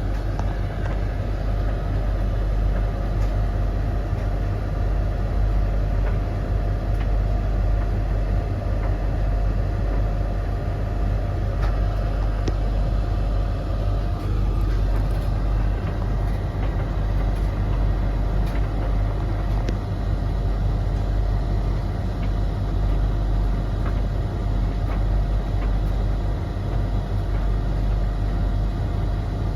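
Three domestic tumble dryers running together mid-cycle: a steady hum of motors and fans with the drums turning, and a few faint ticks over it.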